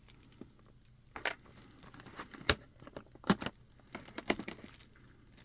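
Packing material crinkling and scattered sharp clicks and knocks as plastic model airplane parts are handled, with the two loudest clicks about two and a half and three and a third seconds in.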